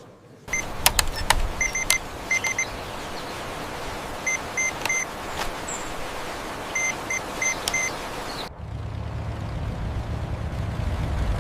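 Short electronic beeps in quick clusters of two or three, each a high double tone, over a steady hiss, with a few sharp clicks. About eight and a half seconds in, the hiss stops and a steady low rumble takes over.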